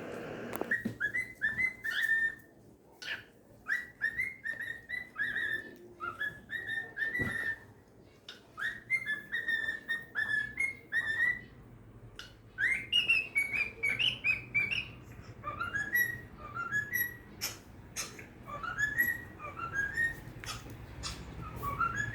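Cockatiel whistling: a quick run of short chirped notes, then, from about halfway, a series of separate rising whistles, with a few sharp clicks in between.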